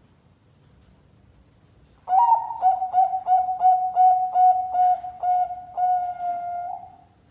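Zebra dove (Bangkok-type perkutut) cooing: after about two seconds of quiet, a quick run of a dozen or so short, clipped coos on one steady pitch, closing with a longer held coo.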